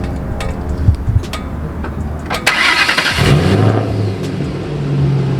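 2010 Ford Mustang GT's 4.6-litre V8 started after an oil change: the starter cranks about two and a half seconds in, the engine catches and settles into a steady idle that steps up slightly near the end.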